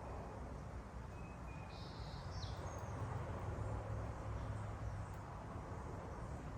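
A few short, faint bird chirps, with a brief buzzy call and a quick falling note about two seconds in, over a steady low background rumble.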